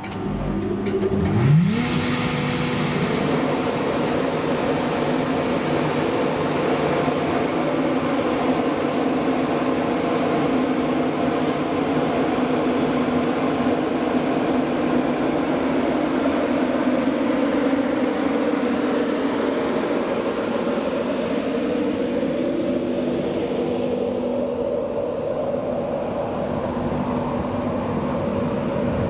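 LNER Hitachi Azuma passenger train pulling out of the station. A tone rises steeply about a second in as it powers up, then holds as a steady hum over the running noise of the carriages rolling past.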